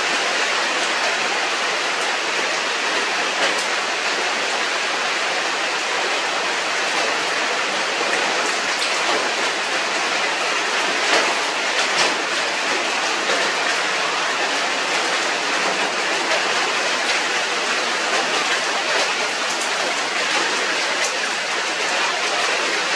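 Steady rain falling, an even dense hiss with a few brief ticks of single drops or clicks.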